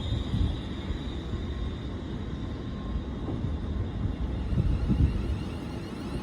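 Railway station platform ambience: an uneven low rumble of trains.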